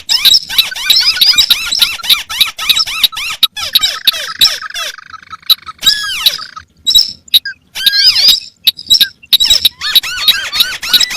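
Crakes calling: a fast, squeaky chatter of repeated high arched notes. It thins out in the middle, where a steady buzzy note runs for a couple of seconds, then turns dense again near the end.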